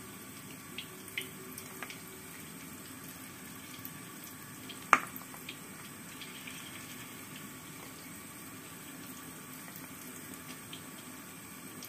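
Egg-and-tempe fu yung hai batter sizzling steadily in hot oil in a wok, with a few light taps of a plastic spatula against the pan and one sharper knock about five seconds in.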